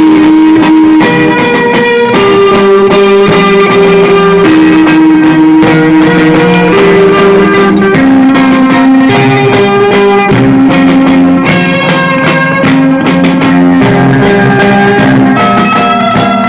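A band playing loud music, guitar lines over drums, with held notes moving through a melody.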